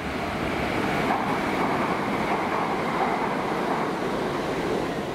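Electric multiple unit train passing close by, a steady rush of wheel and track noise that swells and then begins to ease off near the end.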